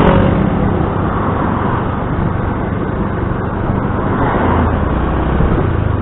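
Motor scooter running through town traffic, with a steady engine hum and road noise. A deeper low hum swells about four and a half seconds in.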